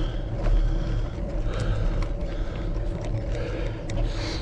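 Wind rumbling on the microphone with road noise from a touring bicycle on the move, steady with a few brief hissy swells.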